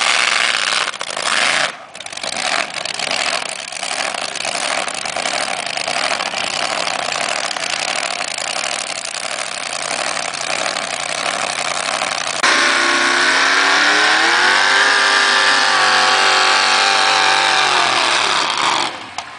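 Pulling tractor's engine running hard under load, loud and harsh. About twelve seconds in the sound changes abruptly to a clear engine note that climbs, holds high and falls away just before the end.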